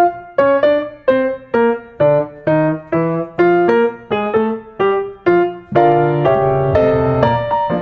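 Background piano music: single struck notes, about two a second, each dying away, then several held chords near the end.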